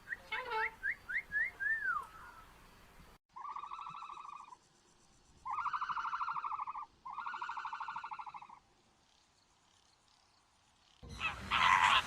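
A bird sings a short phrase of about six quick whistled notes. After a cut, an animal gives three long, buzzy, pulsing calls. Near the end, loud honking begins.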